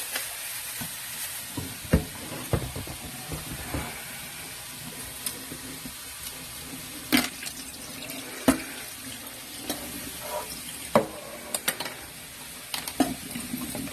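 Kitchen sounds: a steady hiss with a series of sharp knocks and clinks of cookware and utensils, the loudest about two, seven, eight and a half and eleven seconds in.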